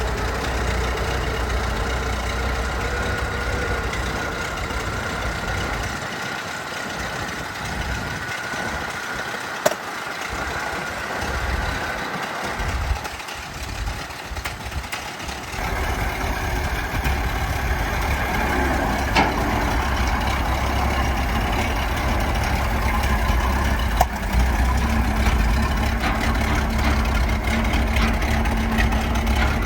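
1921 Ford Model T truck's four-cylinder engine running steadily. Its low rumble fades for several seconds partway through, then comes back, with a few sharp clicks along the way.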